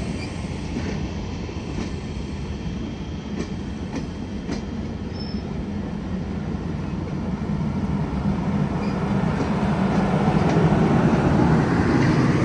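A train rolling past on the rails: a steady rumble with faint wheel clicks, growing louder over the last few seconds.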